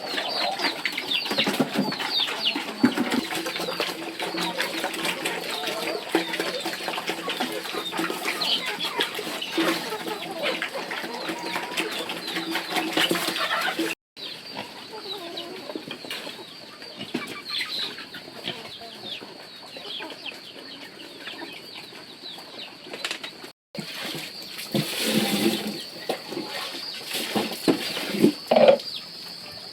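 Farmyard chickens clucking amid busy chirping. The sound cuts out abruptly twice, and near the end there are a few louder flurries and knocks.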